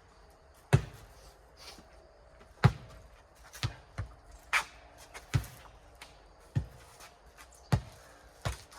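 Rubber playground ball bouncing on a hard court and being kicked during a four square rally: about nine sharp smacks at uneven spacing, roughly one a second.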